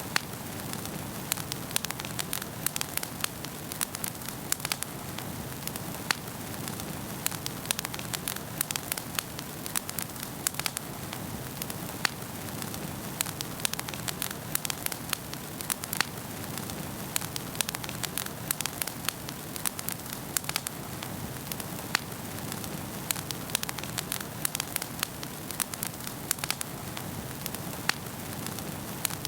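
Wood fire crackling in a fireplace: a steady rush with frequent sharp pops and snaps throughout.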